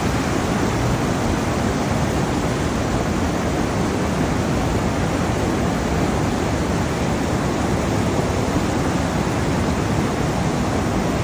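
Steady, loud rush of water in a flood, an even roar with no breaks.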